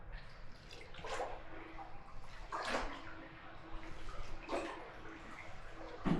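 Water splashing as a boat's oars or paddle dip and pull, three strokes about a second and a half to two seconds apart, over steady lapping.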